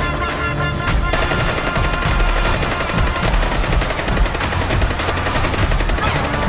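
Music briefly, then about five seconds of a fast, dense rattle of sharp cracks, like sustained automatic gunfire, that stops shortly before music returns.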